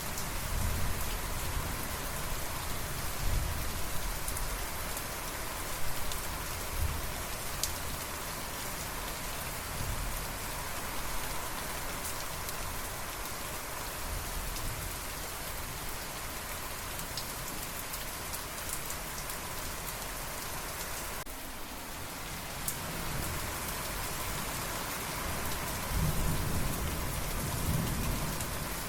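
Steady rain falling, with low rumbles of thunder coming and going, the longest rumble near the end.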